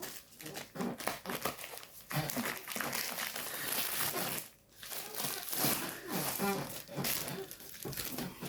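Packaging crinkling and rustling in the hands as a new car's owner's manual pack is opened, with a brief pause about halfway through.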